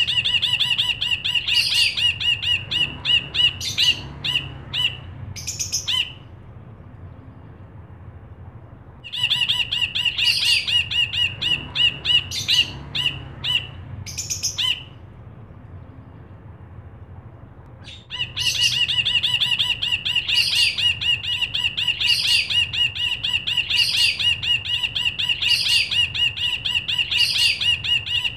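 Cinereous bulbul (brinji kelabu) singing in fast runs of bright, rapidly repeated chattering notes. The song comes in three long stretches broken by two pauses of about three seconds.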